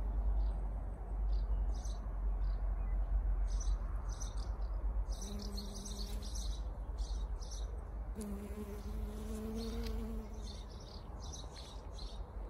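Small birds chirping, with many short, quick, high chirps throughout. Twice in the middle a steady low buzzing hum rises, once for about a second and once for about two seconds.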